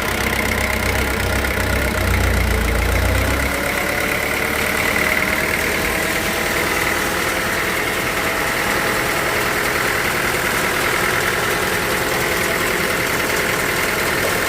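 Sawmill machinery running steadily, with a strong low rumble that drops away about three and a half seconds in.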